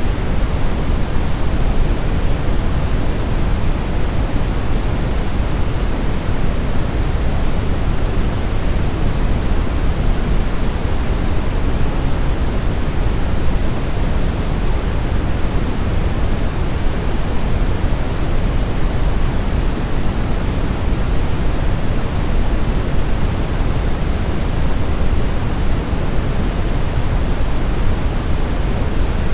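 Brown noise: a steady, even rushing hiss weighted toward the low end, with no tones or events.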